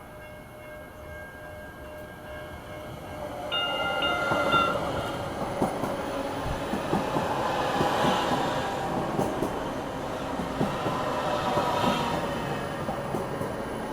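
Link light rail train arriving and running on the track, with a short horn blast about three and a half seconds in, then a steady rush of wheel and track noise with scattered clacks over the rail joints.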